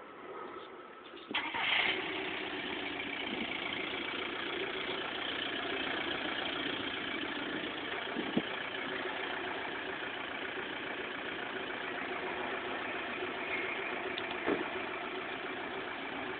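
Modified Ford Focus with an aftermarket exhaust starting up about a second in, then idling steadily.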